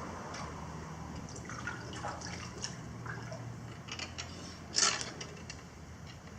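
Water splashing and dripping in short bursts, the loudest splash about five seconds in, with a few small clicks and knocks, over a steady background rush of fast-flowing river water.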